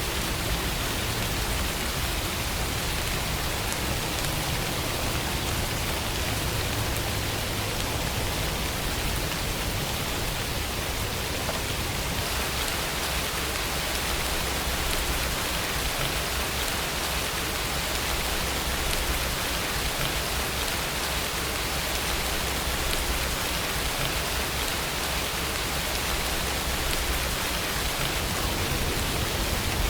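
Steady rainfall, drops pattering on a surface in an even hiss with no pauses.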